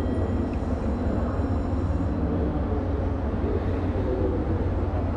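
Steady low hum and rumble of JR Kyushu electric trains, with faint thin high tones over it.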